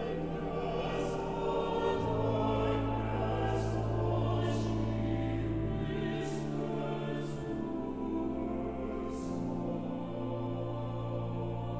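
A choir singing slow, sustained music over accompaniment, the bass changing under held chords every few seconds.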